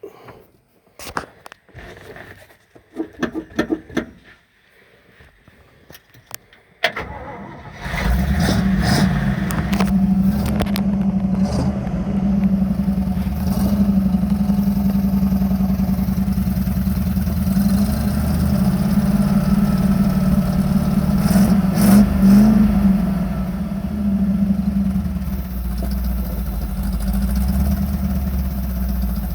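Chevrolet 283 small-block V8 in a 1968 C10 pickup being started cold: scattered clicks and knocks, then about seven seconds in the engine cranks briefly, catches and settles into a steady run, swelling slightly about 22 seconds in.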